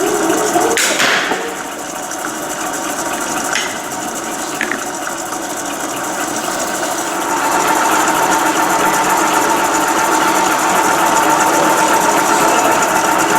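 Meddings 175 pillar drill running under power, a steady mechanical hum with whining tones. There is a sharp clunk about a second in, and the running grows louder, with a stronger whine, from about halfway through.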